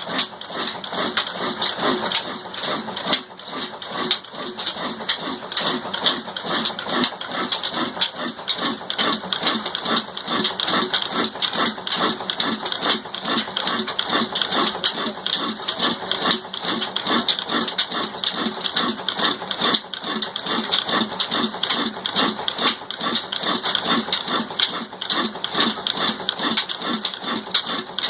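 Desi single-cylinder engine running steadily, with an even beat of about four to five pulses a second.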